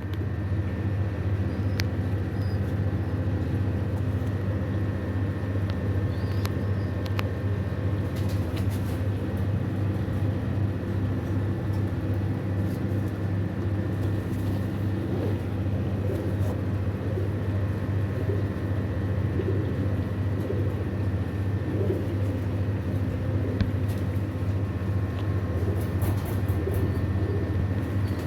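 A steady low hum, with faint pigeon coos over it.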